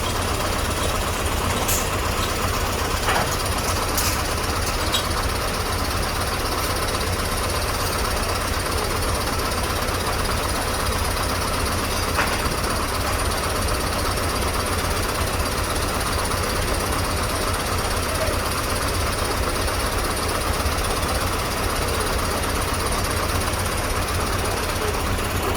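Heavy diesel truck engine running steadily with a constant low rumble, with a few faint clicks.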